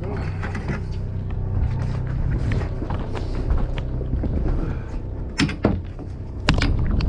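Fishing boat's engine running with a steady low drone, under scattered clicks of tackle and gear on deck. Several sharp knocks come near the end.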